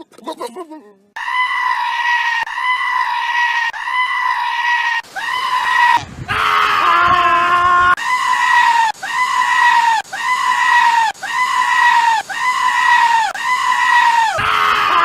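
A goat bleating in a rapid string of short, high-pitched, evenly spaced cries, almost two a second. Midway the string breaks for a lower, longer bleat, then starts again.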